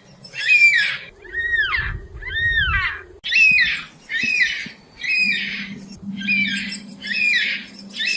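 Yellow-tailed black cockatoo calling: a string of about ten calls, roughly one a second, each bending up and down in pitch. Two calls about a second and two seconds in are longer, cleaner arching calls that rise and then fall.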